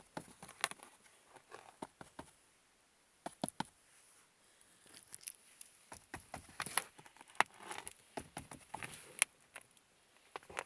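A cat playing: scattered light taps, clicks and brief scratchy rustles of paws and claws on surfaces, coming irregularly with short gaps between.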